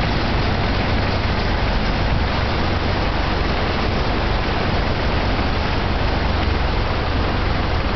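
Truck driving with a steady low rumble and an even hiss of engine and road noise, unchanging throughout.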